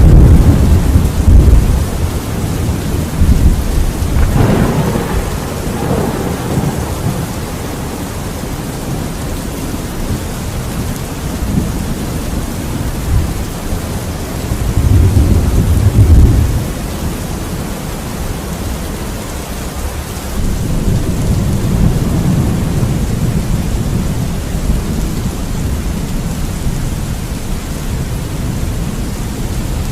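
Steady rain with rolling thunder, the deep rumbles swelling and fading several times: at the start, a few seconds in, in the middle and again past two-thirds of the way.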